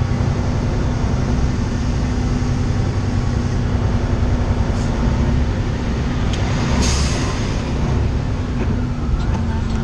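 Semi truck's diesel engine running steadily, heard from inside the cab, with its turbocharger failed. A brief hiss comes about seven seconds in.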